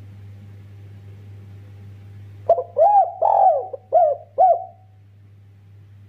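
Spotted dove (derkuku) cooing: one phrase of about five arched coos, starting about two and a half seconds in and lasting about two seconds, over a steady low hum.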